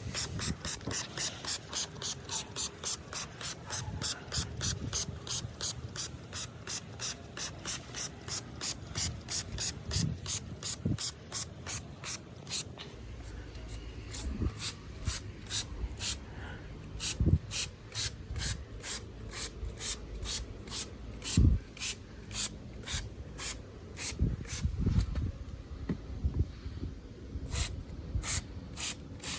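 Hand trigger sprayer squeezed over and over, each squeeze a short hiss: about three a second for the first half, then slower and more spaced out. A few dull thumps come in the second half.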